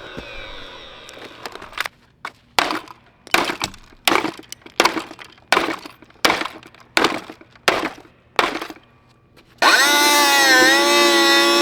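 About ten sharp smashing blows, roughly one every 0.7 seconds, cracking the plastic of a Shark Rotator XL vacuum cleaner, after a falling whine fades out. About ten seconds in, a loud wavering wail with many overtones starts suddenly.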